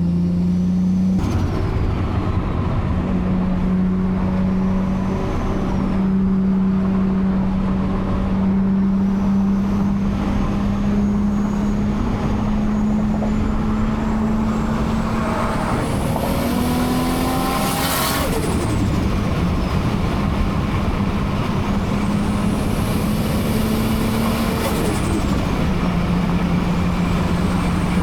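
Big-turbo Toyota Supra MK4 2JZ-GTE straight-six running at a steady cruise, its note climbing in pitch for a few seconds about halfway through as it pulls, then dropping back. A high whistle rises and falls twice in the second half, over steady road noise.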